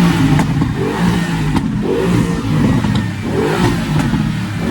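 Car engine being revved over and over, its pitch rising and falling with each blip of the throttle.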